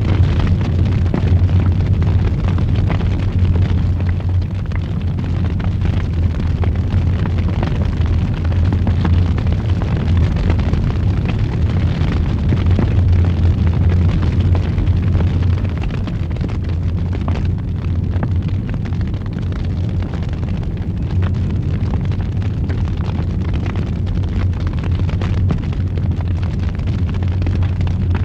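Wood fire burning in a fireplace: a steady low rumble with frequent crackles and pops throughout.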